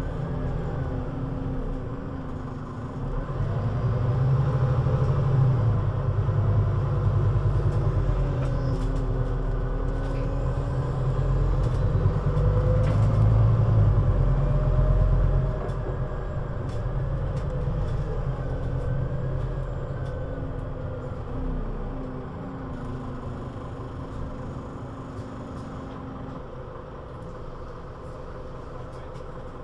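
Scania Citywide three-axle city bus (CN320UA 6x2/2) running. About three seconds in the engine pulls harder and its pitch rises and falls through the next ten seconds. About halfway through it eases off, and the sound settles lower and slowly fades toward the end.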